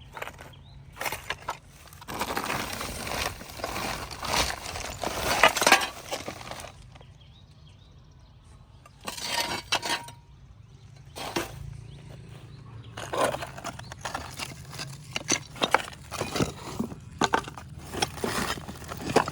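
Hard cement being chipped and broken off a phone: repeated clinks, scrapes and cracking strokes in bursts, with short pauses between them.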